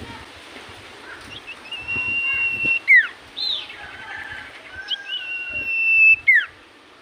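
Common iora (cipoh) singing. It gives two long, steady whistled notes, each about a second long and each dropping away in a quick downward slur at the end. Shorter whistles and chirps come between them.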